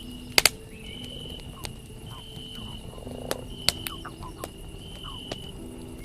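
Campfire crackling, with sharp pops, the loudest a quick double pop about half a second in and another near the middle. Through it, a high steady tone sounds for about half a second, repeating roughly every second and a half.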